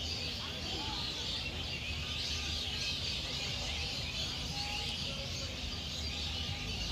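Dense evening chorus of many small birds chirping and twittering together without a break, with a few short whistled calls standing out, over a steady low rumble.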